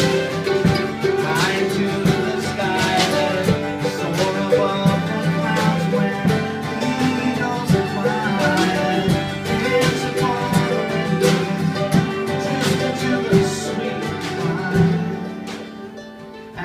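Acoustic folk music in an instrumental break: plucked strings picked quickly over held low notes, with no singing. It dies away over the last second or two.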